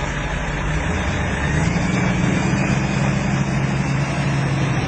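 Motor vehicle engine running steadily, its low hum rising slightly in pitch about a second and a half in.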